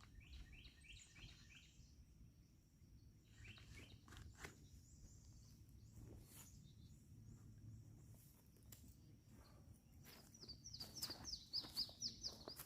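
Faint birdsong over quiet outdoor background: quick runs of short high chirps, heard near the start, again a few seconds in, and louder near the end.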